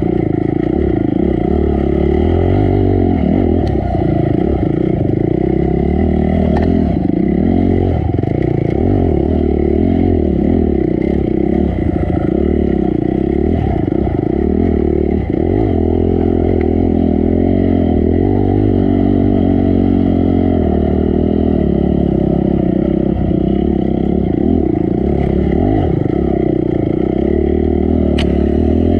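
Honda CRF250 dirt bike's single-cylinder four-stroke engine revving up and down without a break as it climbs a rocky trail in low gear. A few sharp knocks sound over it, one near the end.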